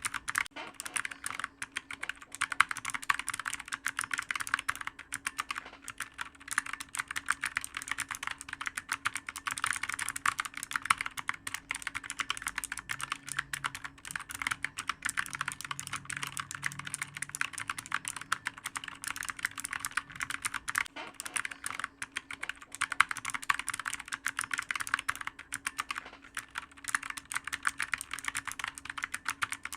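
Computer keyboard being typed on fast and without pause: a dense run of clicky keystrokes, with a faint steady hum underneath.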